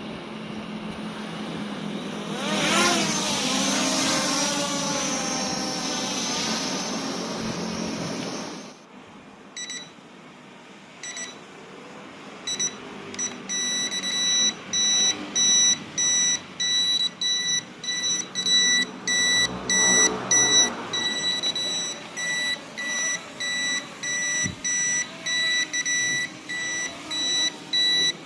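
Small toy drone's electric motors and propellers whirring, the pitch rising and wavering about three seconds in, then cutting off after about eight seconds. A steady series of short electronic beeps follows, roughly one or two a second.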